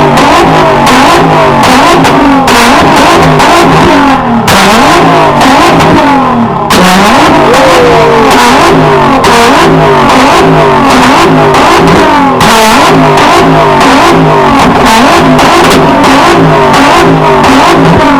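Performance car engine revved hard over and over, its pitch climbing and falling in quick repeated blips about every half second; very loud.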